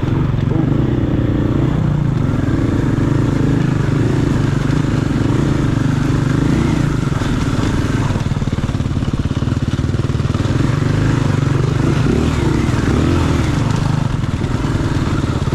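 Dirt bike's single-cylinder four-stroke engine, a KTM 500 EXC-F, running steadily on a trail ride, its pitch rising and falling a little with the throttle.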